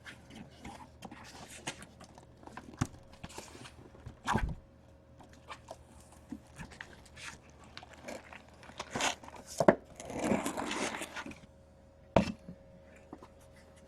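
Cardboard hobby boxes of trading cards handled and set down on a desk: scattered knocks and taps, with about a second and a half of rustling around ten seconds in. A faint steady hum sits underneath.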